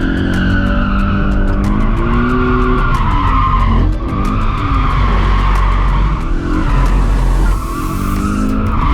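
Car drifting: the engine revs up and down while the tyres squeal continuously, with brief lifts off the throttle about four seconds in and again near the end.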